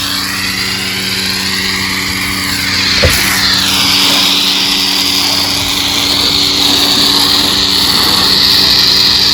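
A small motor running steadily with a loud hiss over it, a single knock about three seconds in, then the hiss growing stronger and higher.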